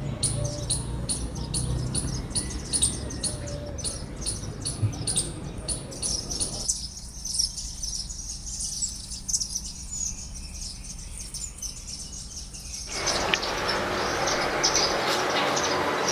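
Garden birds chirping: a short high chirp repeated about twice a second for the first several seconds, then a denser mix of overlapping chirps.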